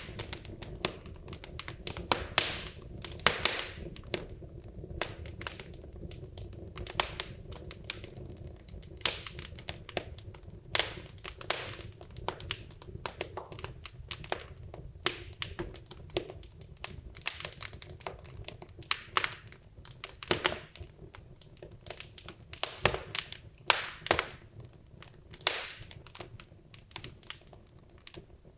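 Wood logs burning in a fireplace: irregular sharp crackles and pops, a few a second, over a low steady hiss from the fire.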